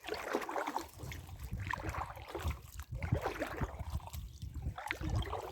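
Water splashing and sloshing around a small boat, with irregular low knocks against the hull.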